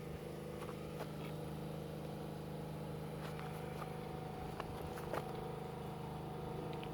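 Steady low mechanical hum, like a running engine or motor, with a few faint scattered clicks.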